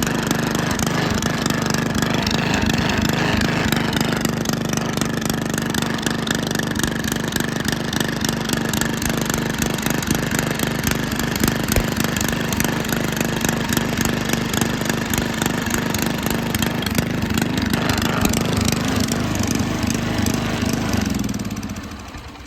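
Sears Custom 8 garden tractor engine running at a steady speed after sitting for several months, then winding down and stopping about 21 seconds in.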